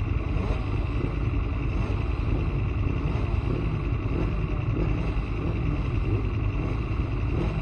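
Aprilia Tuono motorcycle running on track, with its engine note rising and falling under a heavy, steady rumble of wind on the microphone.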